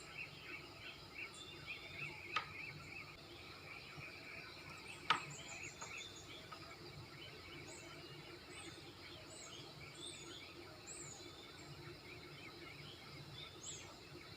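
Rainforest ambience: many birds chirping, with a thin high call repeating about once a second in the second half. Two sharp clicks stand out about two and five seconds in, over a faint steady hum.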